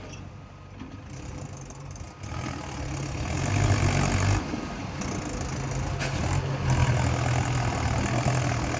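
Mahindra tractor's diesel engine running. It picks up throttle about two seconds in and keeps running harder after that.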